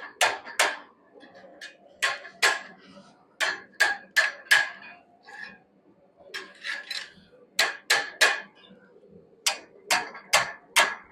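Hand hammer blows on hot wrought iron at an anvil, in quick groups of two to four strikes with short pauses between, each strike with a bright metallic ring. The iron is being bent into a curve over the horn of the anvil.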